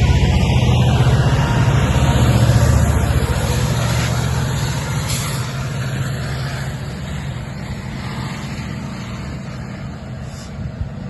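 Diesel train locomotive engine running with a low pulsing throb, loudest in the first three seconds and fading steadily as it draws away.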